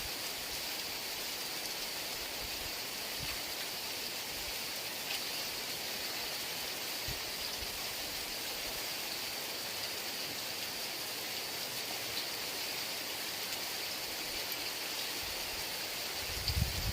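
Heavy rain falling steadily, an even hiss with no pauses. A low rumble comes in near the end.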